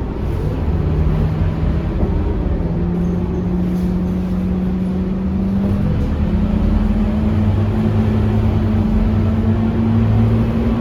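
Scania K230UB city bus's five-cylinder diesel engine running under way, a steady drone whose pitch rises slowly as the bus gains speed.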